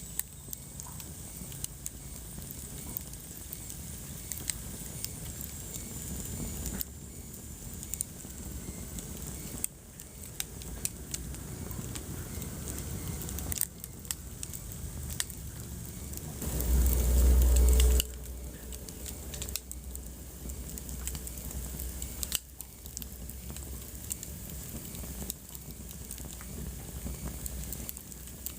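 Wood fire crackling in a fireplace: scattered sharp pops and ticks over a steady low rush. A little past halfway there is a low rumble lasting about a second and a half, the loudest moment.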